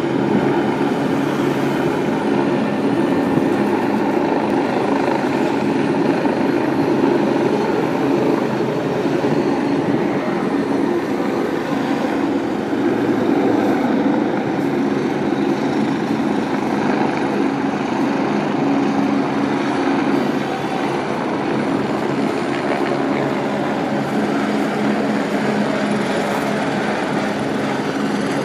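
Helicopter flying close by: a steady rotor and engine drone that eases off slightly about twenty seconds in.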